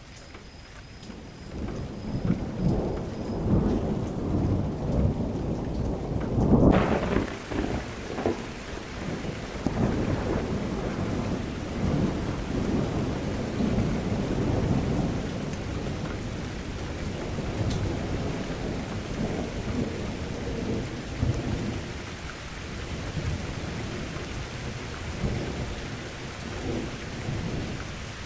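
Thunderstorm sound effect: rolling thunder builds over the first few seconds and peaks about a quarter of the way in. At that moment a steady rain hiss starts abruptly and carries on under further low rumbles of thunder.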